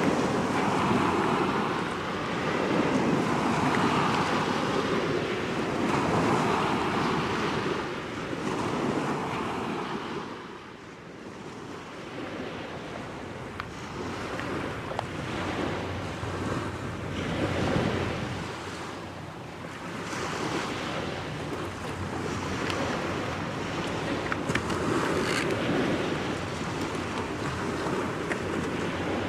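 Gusty wind buffeting the microphone over the wash of waves on the shore, swelling and easing in surges. It drops off about ten seconds in and then builds again.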